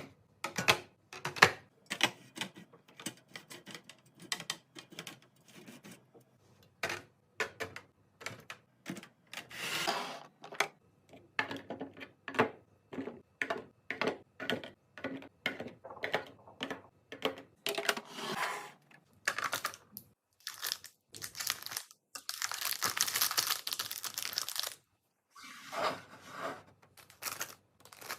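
Plastic packaging crinkling and tearing while groceries are unpacked, mixed with many short knocks and clicks of containers being handled and set down. A longer spell of crinkling comes a little before the end.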